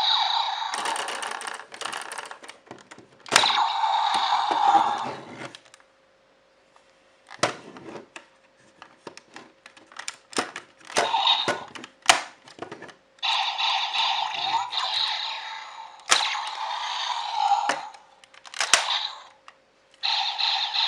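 Plastic toys being handled, with sharp clicks and knocks, between stretches of electronic toy sounds from a small speaker.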